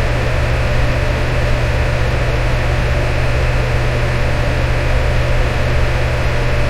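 Electric fan running steadily: an even whooshing rush of air over a deep motor hum, with no change in speed.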